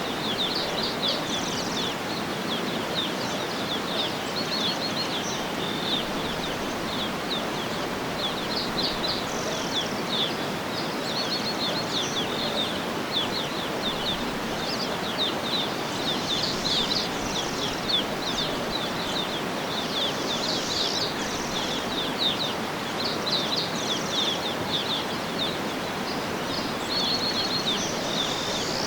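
Many small birds chirping and trilling, short quick high notes repeated throughout, over a steady rushing background noise.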